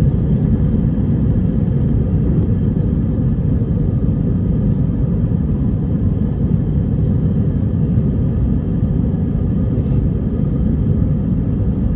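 Airbus A320 jet engines at takeoff power, heard inside the passenger cabin during the takeoff run: a loud, steady, deep rumble.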